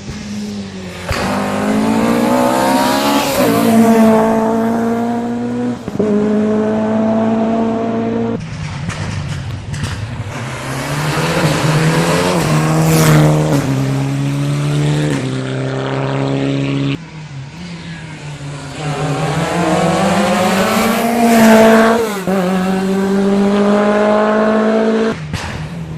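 Rally car engines at full throttle on a special stage, each rising steadily in pitch and then dropping back at the upshifts. The sound breaks off abruptly a few times and picks up again at a different pitch.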